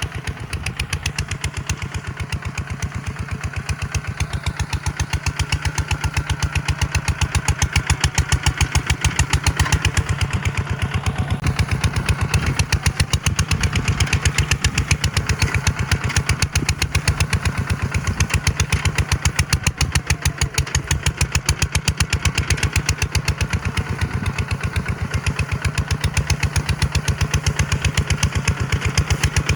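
Tractor engine running steadily with a fast, even beat, getting a little louder about seven seconds in.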